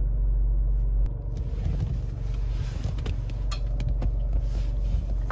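Low, steady rumble of the car idling, heard inside the cabin, with a few short knocks and rustles of the phone being handled as it moves.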